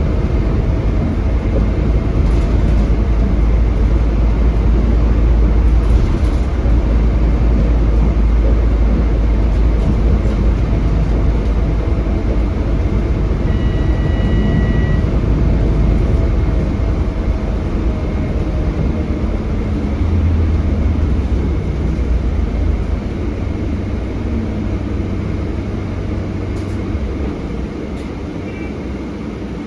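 Scania K320HB bus with a DC9 engine heard from inside the cabin while under way: a steady heavy engine and road rumble. A brief high beep sounds about halfway through, and the rumble eases off over the last few seconds.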